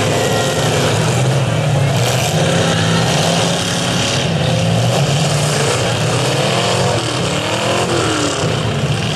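Several demolition derby cars' engines running loudly together, with revs rising and falling as the cars push and ram one another in the mud, most plainly in the last few seconds.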